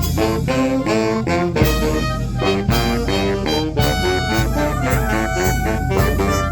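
A fanfarra brass band playing a lively tune. The brass carry a melody in quick, detached notes over strong bass and regular drum strikes.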